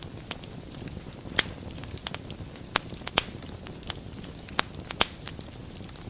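Wood fire burning in a fireplace: a steady low rush with sharp crackles and pops at uneven intervals, the loudest pop about a second and a half in.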